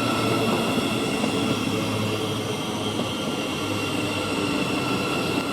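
Thameslink Class 700 electric multiple unit running through the station: a steady electric hum with a few constant tones over even running noise.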